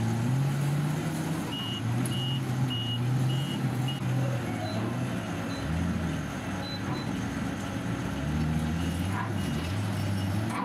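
A heavy machine's engine running, rising and falling in pitch as it works. A backup alarm beeps in short, evenly spaced beeps about a second and a half in, stops after a few seconds, and starts again near the end.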